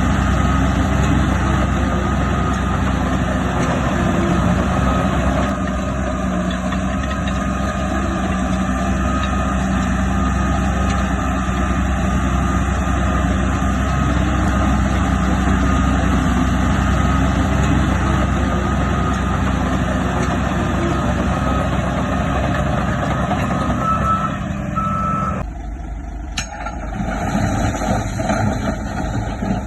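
Heavy diesel earthmoving machinery running under steady load, with a reversing alarm beeping. The engine noise drops off suddenly about twenty-five seconds in.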